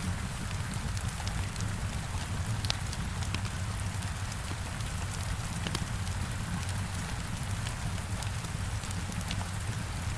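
Heavy rain falling steadily against a window, a continuous hiss with a low rumble beneath, with scattered sharp crackles and pops from a wood fire.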